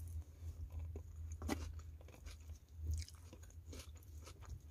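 A person chewing a mouthful of soft taco: faint, irregular mouth clicks and smacks, two a little louder about a third and two thirds of the way in, over a low steady hum.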